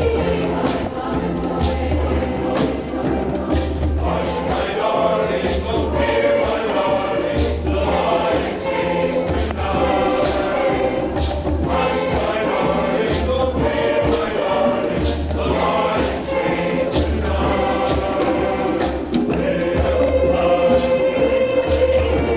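Choir singing an African song, accompanied by a steady low beat and light percussion.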